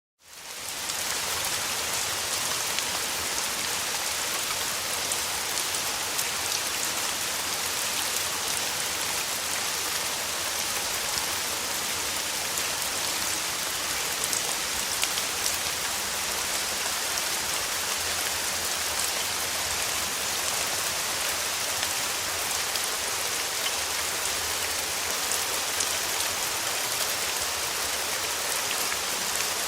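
Steady rain falling, an even hiss with many small drop ticks, fading in over the first second.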